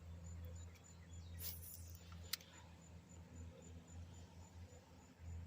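Quiet outdoor background: a faint, evenly repeating high insect chirp over a low steady hum, with a short hiss about a second and a half in and a single sharp click a little after two seconds.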